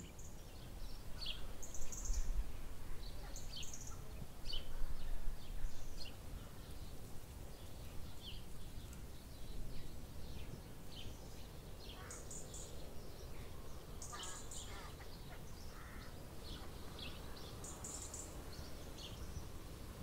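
Garden birds chirping and singing: many short, high calls scattered throughout, over a low steady outdoor rumble.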